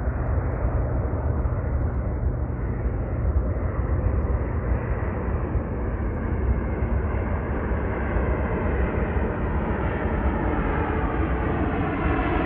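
Jet airliner engines on landing approach: a steady rumble that grows brighter toward the end as the aircraft comes closer.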